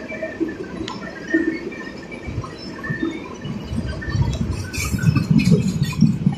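Freight-train tank cars rolling past on steel wheels, with clanks and knocks from the wheels and couplers. A heavier, pulsing rumble builds over the last few seconds.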